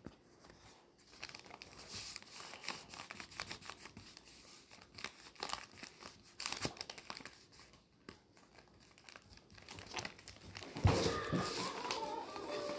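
Crinkling and rustling, like plastic or paper being handled, with many small scattered crackles. A brief voice-like sound comes in near the end.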